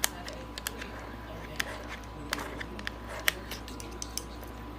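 Irregular sharp clicks and taps, about a dozen, of a pet bird's beak and feet on the tap it is trying to turn on.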